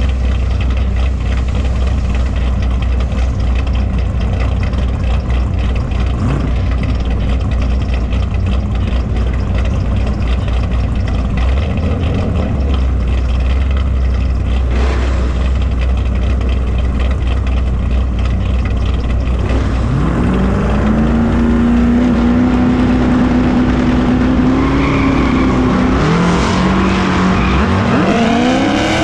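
Muscle car's V8 engine running with a deep, steady rumble, then revving up about two-thirds of the way in, holding high for a few seconds, easing off, and revving sharply again near the end.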